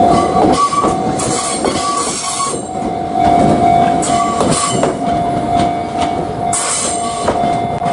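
A train running along the track: a steady whine with repeated clattering and brief high squeals.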